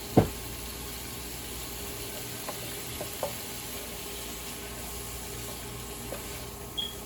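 Sliced onions sizzling steadily in hot butter and garlic in a frying pan, with one sharp knock against the pan just after the start and a few lighter taps later. A brief high-pitched chirp sounds near the end.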